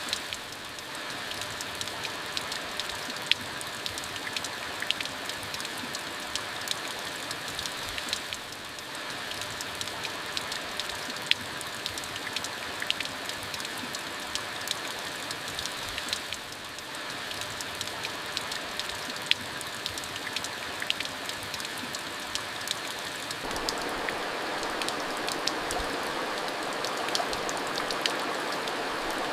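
Steady rain falling, with many sharp individual drop hits scattered through it. About three-quarters of the way in the rain grows denser and a little louder.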